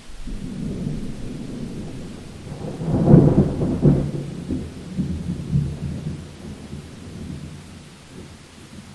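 Thunder rumbling over steady rain, swelling to its loudest about three seconds in and then rolling away in fading rumbles.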